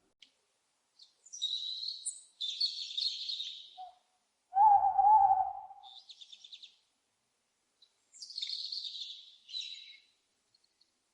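Owl calls: harsh, raspy screeches about a second long, a pair near the start and another pair near the end, with one louder, lower, steady-pitched hoot in the middle followed by a quick run of high ticks.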